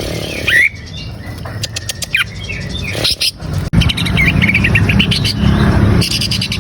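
Green leafbird (cucak ijo) singing: scattered sharp up-slurred chirps, then, about four seconds in, a fast chattering run of short repeated notes.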